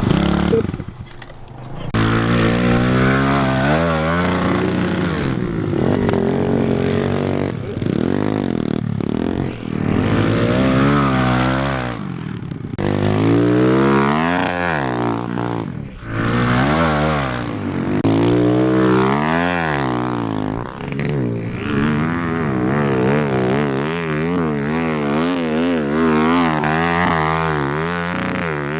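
Pit bike engine revving hard and repeatedly, its pitch rising and falling over and over as the throttle is worked while riding in sand. The engine picks up about two seconds in, after a brief lull.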